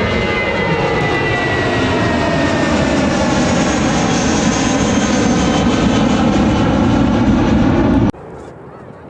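Airliner turbine engines running loud and close, with a high whine and lower tones slowly falling in pitch as the aircraft passes. The sound cuts off abruptly about eight seconds in.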